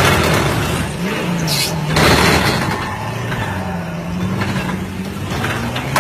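Truck engine running, its pitch dipping and rising gently as it revs a little. There are short loud rushes of noise at the start and about two seconds in.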